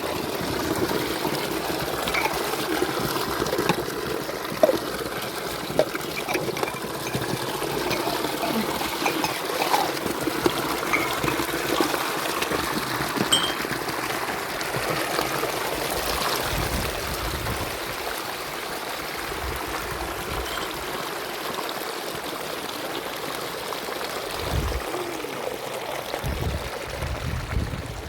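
Spring water trickling and pouring steadily, with a few small knocks and some low thumps near the end.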